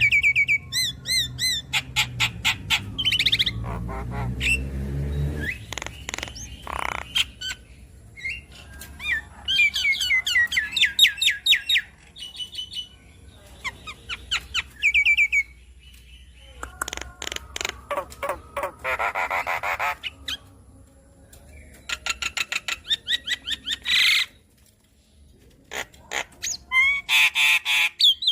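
Javan myna (jalak kebo) singing vigorously through a varied repertoire. It gives bursts of rapid chirps and trills, whistled notes and harsh rasping phrases, separated by short pauses. A low rumble sits underneath for the first few seconds.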